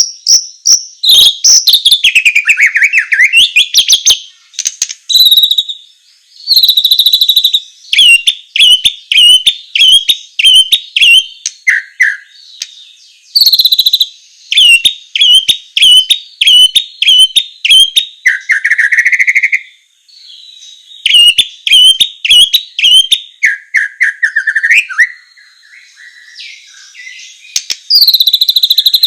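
White-rumped shama singing loudly in bouts: rapid series of sharp whistled notes, about four to five a second, mixed with lower warbled phrases, with short pauses between bouts.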